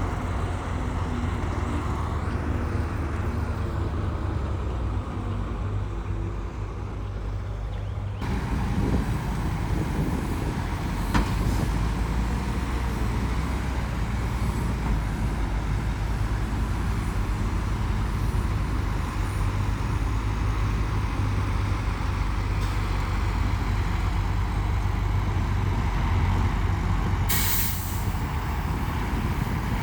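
Heavy diesel earthmoving machinery running steadily, with the engine sound changing abruptly about eight seconds in. A short hiss of air comes near the end, like a truck's air brake.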